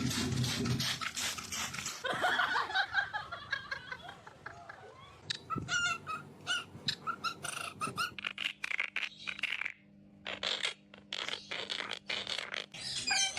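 Pet parrot calling in short, separate chirps and squawks, mixed with clicks, over the room's noise.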